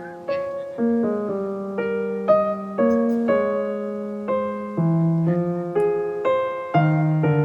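Soft background piano music: single notes and chords struck about every half second, each one ringing and fading over held lower notes.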